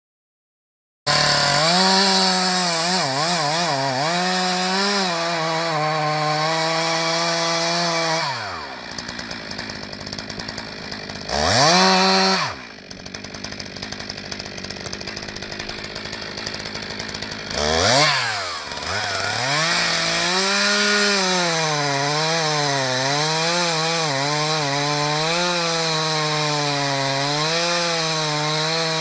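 Chainsaw engine running hard while cutting wood, its pitch wavering as the chain bites. About eight seconds in it drops to a quieter idle and is revved up briefly twice, then cuts steadily again with the pitch rising and dipping under load.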